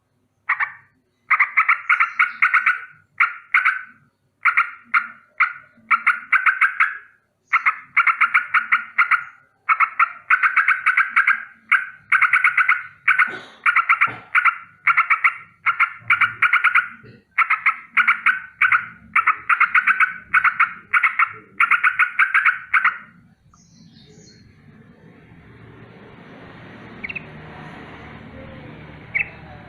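Yellow-vented bulbul giving its harsh rolling alarm call: rapid rattling bursts of pulses, repeated over and over. Near the end the calls stop and only a soft steady hiss remains.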